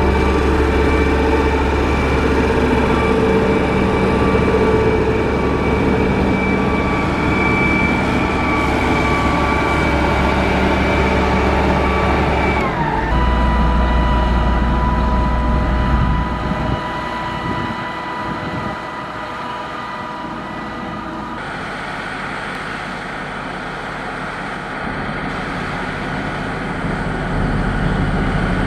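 Heavy road-construction machine engines running steadily. The pitch falls about halfway through, and the sound changes abruptly twice. A quieter engine stretch in the second half grows louder near the end.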